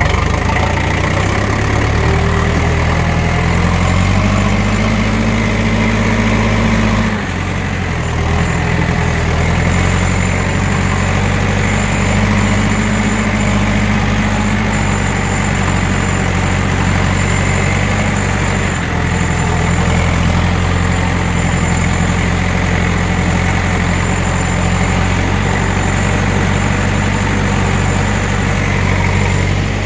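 Tractor engine running loudly as the tractor moves slowly, the engine speed rising and falling several times.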